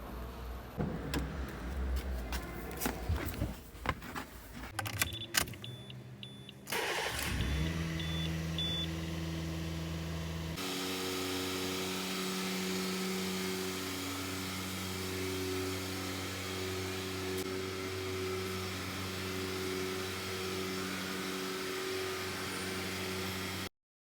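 Honda City's four-cylinder petrol engine cold-started: after some clicks and a few short beeps, the starter cranks briefly and the engine catches about seven seconds in, then idles steadily. The idle note changes about ten seconds in.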